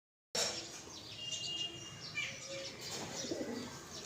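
Several birds chirping and calling, with a thin held whistle about a second in.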